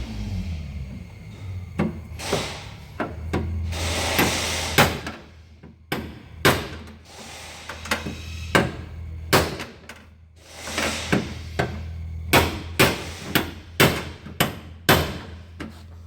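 Hammer striking the crash-damaged sheet-metal body panel to knock out a dent: irregular single blows, then a quicker run of strikes in the last few seconds, over a steady low hum.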